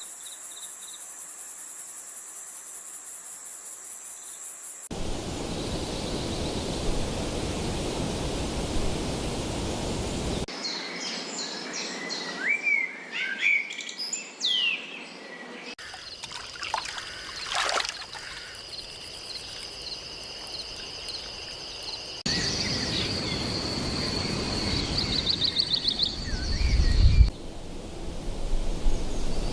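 Birds chirping and calling in short trills and rising and falling whistles, over background noise that changes abruptly every few seconds as the recording cuts between scenes. The first few seconds hold a fast, even, high-pitched pulsing like an insect.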